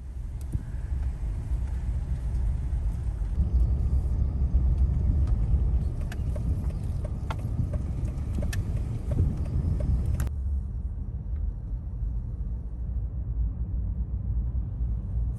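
Steady low rumble of a vehicle in motion, heard from inside it, with a few small clicks and knocks.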